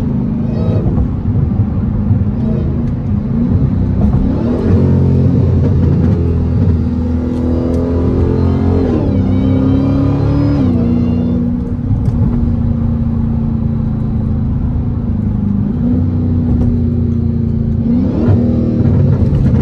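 Supercharged HEMI V8 of a Dodge Hellcat running under way, its revs rising about four seconds in, dipping and climbing again around the middle, and rising once more near the end as the driver shifts down and gets on the throttle.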